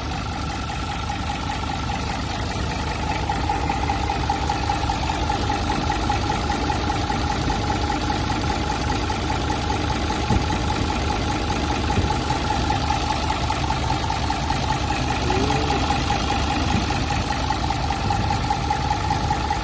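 Nissan Condor dump truck's J07E diesel engine idling steadily: a low, even chugging with a steady high whine over it, growing slightly louder over the first few seconds.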